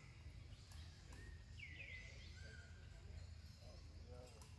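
Near silence over a low rumble, broken by a bird's calls: falling whistles that level off, two in quick succession about two seconds in, and some faint short calls near the end.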